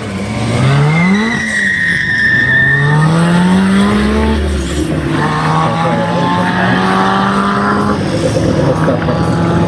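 Drag-racing car engine under hard acceleration, its pitch climbing and dropping back at each gear change, then running at a steady pitch. A high squeal comes in briefly about two seconds in.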